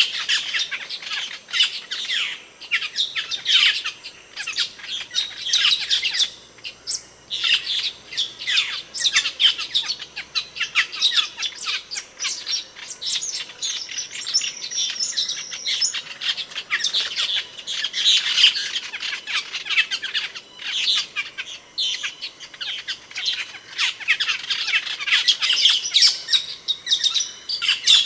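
Asian glossy starling (cucak keling) calling: a dense, continuous run of sharp, high chirps and squawks with brief pauses, and a short level whistle about halfway through.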